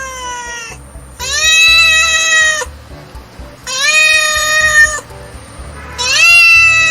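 A cat meowing: three long, drawn-out meows, each lasting over a second, with the tail of another at the start.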